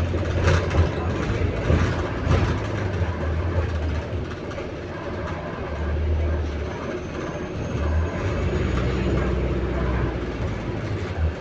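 Inside a moving bus: a low engine drone that swells and eases, with knocks and rattles from the bus, busiest in the first few seconds, and a faint high whine rising slowly around the middle. The bus makes an odd noise as it moves.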